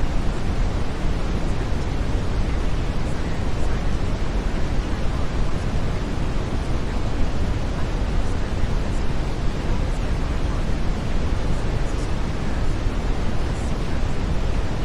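Brown noise: a steady, deep, even hiss, heaviest in the bass and thinning toward the treble, with no change in level.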